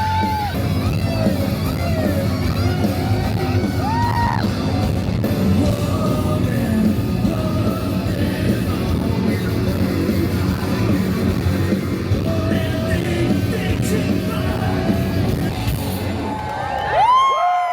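Live rock band playing with amplified singing, crowd yells and whoops over it; near the end the music breaks off sharply and a loud yell rises.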